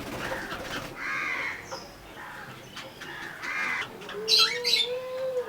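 Birds calling: two harsh, caw-like calls, one about a second in and one at about three and a half seconds, then shrill squawks and a drawn-out, gently wavering whistled note near the end.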